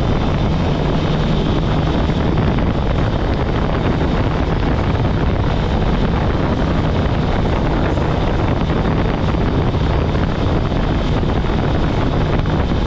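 Kawasaki ZX-10R's inline-four engine running steadily under way, mixed with a steady rush of wind on the microphone.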